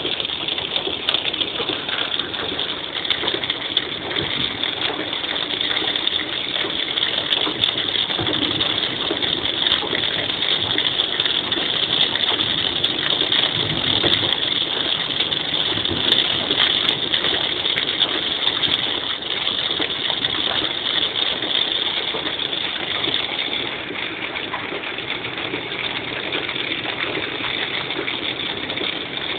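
Heavy rain on a moving car and its tyres swishing through water on the road, heard from inside the car as a steady hiss. It softens a little about two-thirds of the way through.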